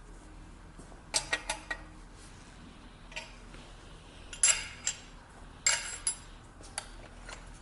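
Hard metal objects clinking and clattering against each other in a few short clusters of sharp taps, over a low steady hum.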